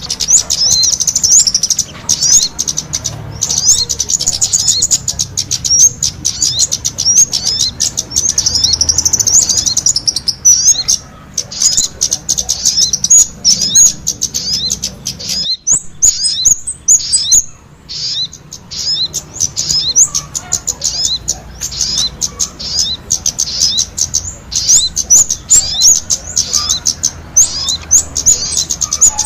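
Kemade and sogon songbirds singing together in full song: a dense, rapid stream of high chirps and trills, with brief pauses about halfway through.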